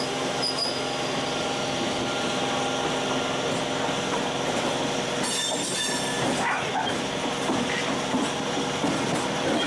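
MEMU electric local train running on the rails: a steady rumble with humming tones, and a brief high wheel squeal about five seconds in.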